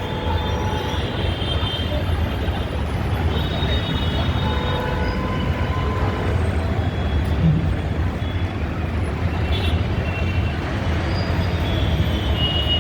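Steady low rumble and noise of a moving vehicle, with faint high tones that come and go.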